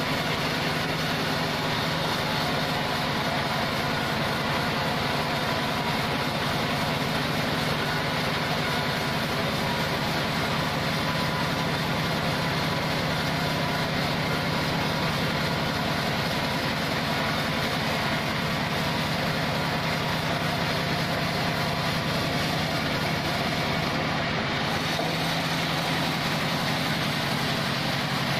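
Log band sawmill machine running steadily, its motor giving a constant low hum under a dense mechanical noise.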